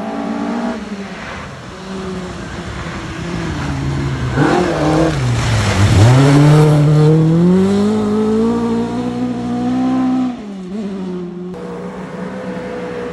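Rally car on a forest stage. The engine note drops sharply as it brakes and lifts off about four seconds in, then climbs steadily as it accelerates hard past with gravel and tyre noise, loudest about six seconds in. A gear change comes near ten seconds, then it runs on more quietly as it pulls away.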